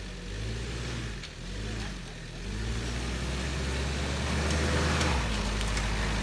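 Nissan Mistral SUV's engine running under way, its pitch rising and falling a few times in the first couple of seconds, then holding steadier as it grows louder.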